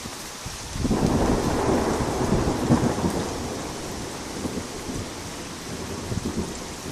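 Thunder in a rainstorm: a sudden loud rumble breaks in about a second in and slowly rolls away over several seconds, over steady falling rain.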